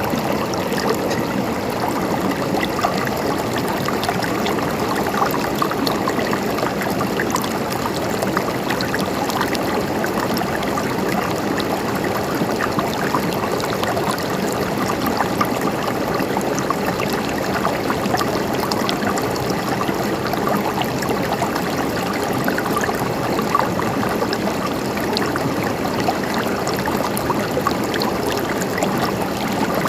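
River water flowing and gurgling steadily over stones, a continuous rush dotted with small splashes and trickles.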